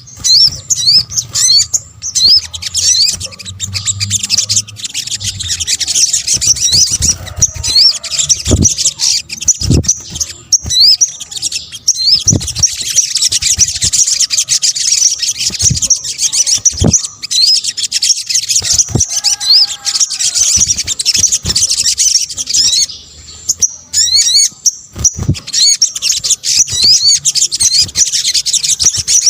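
Sogok ontong, a small nectar-feeding bird, in a fast, high-pitched twittering song full of short rising chirps, broken off briefly about two-thirds of the way through. A few short low thumps sound under the song.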